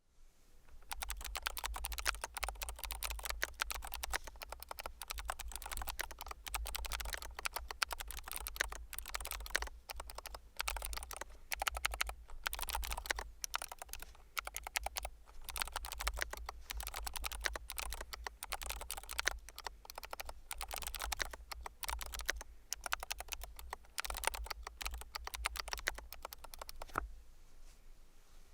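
Fast, continuous typing on an FL-ESPORTS NX87HE tenkeyless keyboard with magnetic FL-CMMK Lemon switches: a dense run of keystroke clacks with a dull thump beneath each. It starts about a second in and stops near the end.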